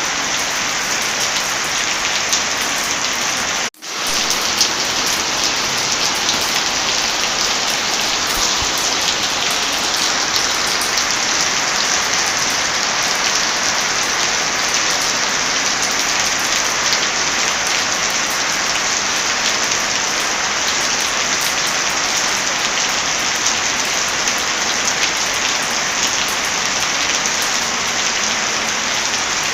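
Steady heavy rain with scattered sharp crackles of a wood fire mixed in. The sound cuts out for a moment about four seconds in, then comes straight back.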